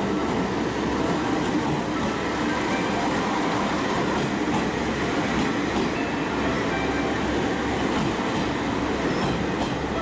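KiHa 47 diesel railcar train running at a station platform, a steady train sound throughout.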